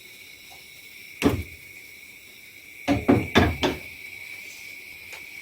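Kitchen knocks over a steady high hiss: one sharp knock about a second in, then about two seconds later four quick knocks in a row, like cookware or a cupboard door being handled.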